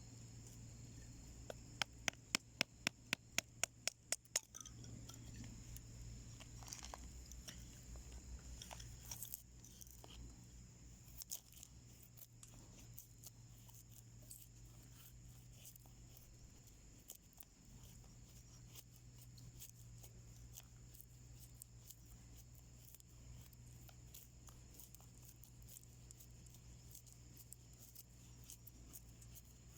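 Wood fire burning in a small homemade wood stove, with scattered faint crackles and pops. About two seconds in comes a quick run of a dozen sharp clicks, about five a second.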